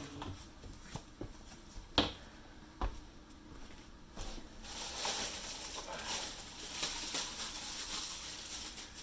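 Two sharp knocks, then several seconds of uneven hissy scraping and rustling from hands-on work at a window sill.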